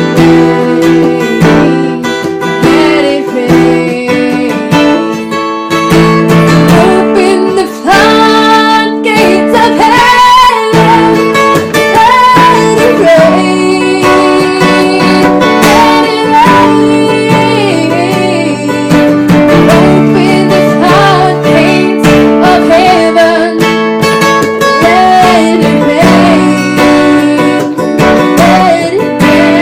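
Acoustic guitar playing chords, with a voice singing a melody over it from about eight seconds in.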